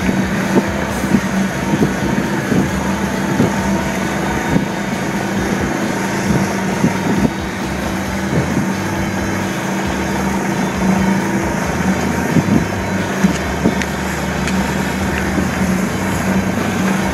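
Golf cart driving along a rough trail: a steady motor hum under rumbling ride noise, with frequent short knocks and rattles as it goes over bumps.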